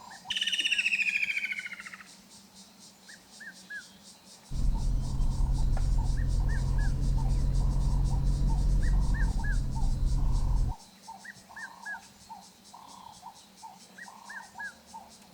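Bush sounds: a loud falling call in the first two seconds, then small birds chirping in quick groups of three every second or two over a steady insect buzz. A low, steady rumble comes in suddenly at about four and a half seconds and cuts off suddenly near eleven seconds.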